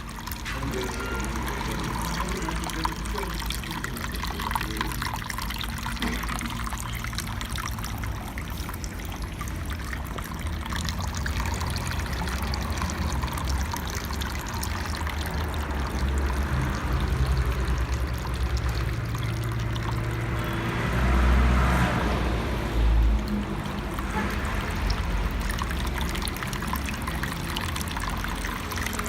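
Waterfall: water falling and splashing in a steady rush, with a heavier low rumble swelling briefly about two thirds of the way through.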